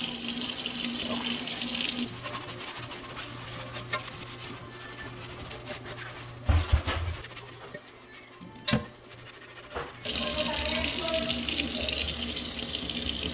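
Kitchen tap running into a sink while a cast iron skillet is washed with soap and hot water. The water stops about two seconds in, two sharp knocks follow in the quieter stretch, and the tap runs again for the last few seconds.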